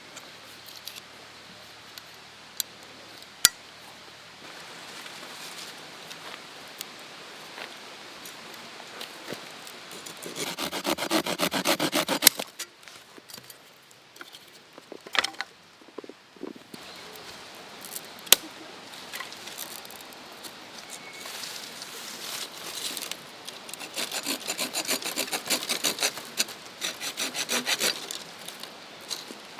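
A saw cutting through wood in two runs of quick, rhythmic back-and-forth strokes, about ten seconds in and again from about twenty-four seconds in, with a few separate knocks and clicks between.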